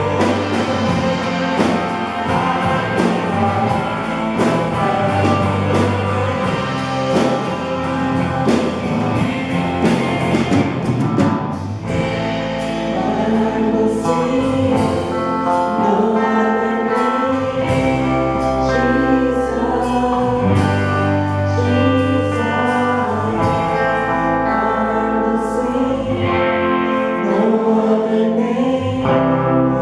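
Live church worship music: a band with a steady drum beat and sustained bass notes, with voices singing along.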